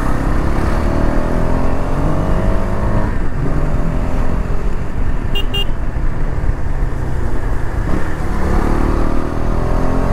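Motorcycle engine under way uphill, its pitch climbing over the first few seconds, dropping, then climbing again near the end, over a steady rush of wind and road noise.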